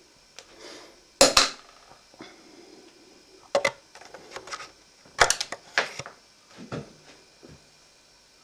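Sharp clicks and clatter of small hard parts and a tool being handled while dismantling a projector's drive mechanism. There is a loud double knock about a second in, another knock a little past halfway through, and a quick run of clicks a couple of seconds later.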